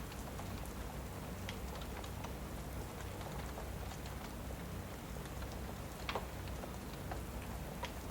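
Steady rain with a fireplace crackling, giving a few sharp pops, the loudest about six seconds in.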